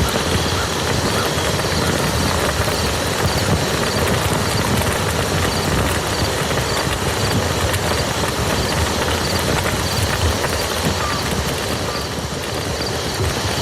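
Steady rain falling on a muddy field: a dense, even patter of drops on wet mud.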